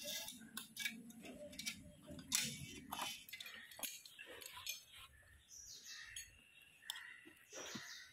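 Birds chirping with short calls, over faint distant voices and scattered clicks.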